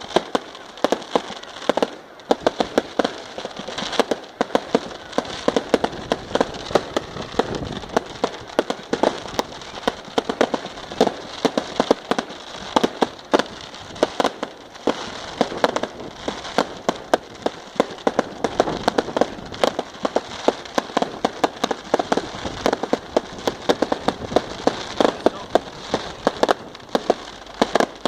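Fireworks going off in a dense, continuous crackle of sharp pops and bangs, several a second.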